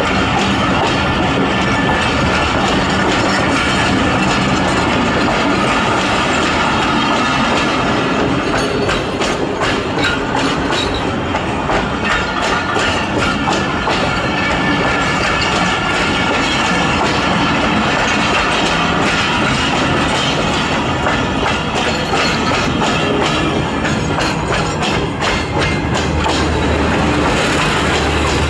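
Passenger train's coaches rolling past on the track as it pulls out of the station, with a steady clickety-clack of wheels over rail joints and some wheel squeal.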